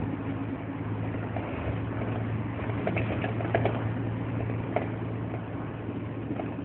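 Scania 124L 360 truck's straight-six diesel engine running steadily, with a few light clicks about halfway through.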